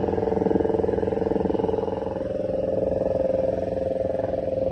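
Engine running steadily close by, holding an even pitch, with its higher part fading a little about halfway through.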